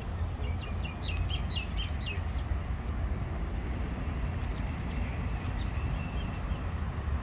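Birds chirping, with a quick run of short repeated chirps in the first two seconds and a fainter single held note later, over a steady low rumble.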